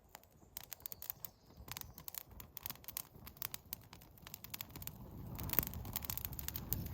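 Irregular sharp clicks and crackles, with a low rumbling noise building up about five seconds in.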